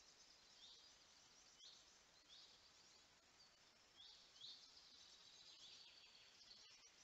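Faint birdsong in a forest: a small bird repeating short high call notes, about one a second, over a faint steady hiss.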